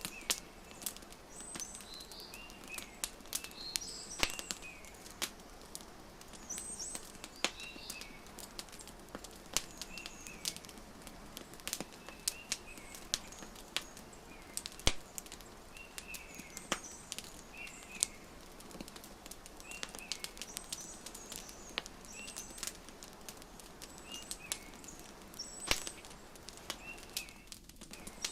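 Wood fire crackling, with frequent sharp pops and snaps over a steady hiss, mixed with small birds giving short chirps every second or two.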